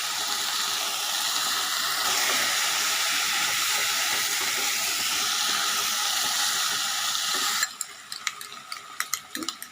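Chicken sausage pieces sizzling steadily in hot oil in a frying pan, with chilli sauce just added. Near the end the sizzle cuts off suddenly, leaving quieter clicks and scrapes of stirring in the pan.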